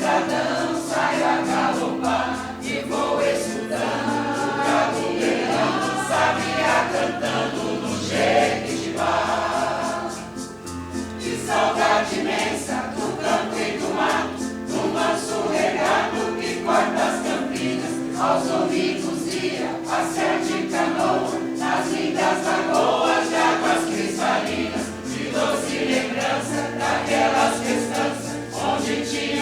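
Mixed choir singing in parts over sustained keyboard accompaniment, with a brief lull between phrases about ten seconds in.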